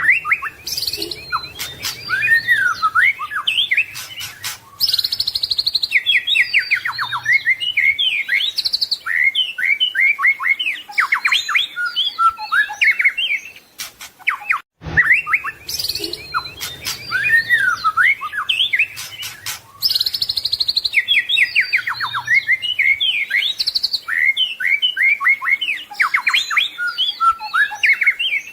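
White-rumped shama singing a fast, varied song of whistles, trills and rattles packed with mimicked phrases (a 'full isian' song). The same stretch of song of about fifteen seconds plays twice, with a brief break about halfway.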